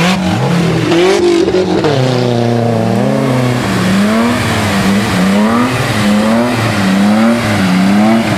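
Off-road competition 4x4's engine revving up and down over and over, its pitch rising and falling about once a second as the throttle is worked while the vehicle crawls over rough ground.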